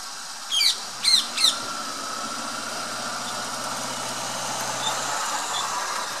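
A bird gives three sharp squawks in quick succession, each sweeping quickly down in pitch, within the first second and a half. A low steady hum follows and stops about five seconds in.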